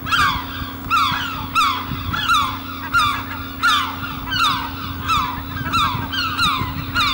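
Birds calling again and again, each call a short falling note, about one and a half calls a second, over a steady low hum.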